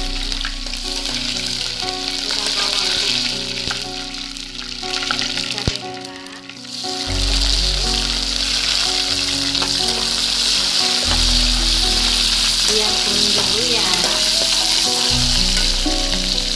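Chopped garlic sizzling in hot oil in a wok. About seven seconds in, sliced red onion is tipped in and the sizzling picks up and stays loud, over background music.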